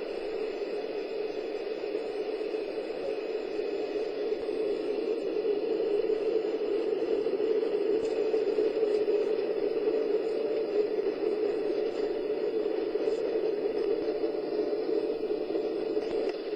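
Airliner cabin noise during a landing approach: a steady rush of engines and airflow that swells a little through the middle.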